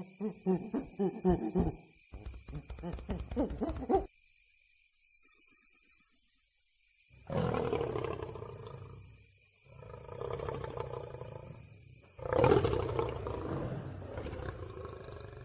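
Wolves growling and snarling, with a run of short pitched calls over the first few seconds, then rough snarls in three stretches after a brief lull.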